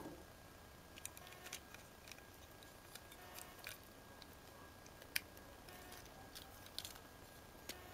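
Plastic model kit parts clicking and snapping together, with scattered small clicks and ticks of handled plastic pieces and a sharper snap at the start and about five seconds in.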